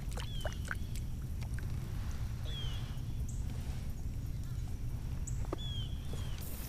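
A bird calls a short falling note three times, about three seconds apart, over a steady low rumble and a few light clicks.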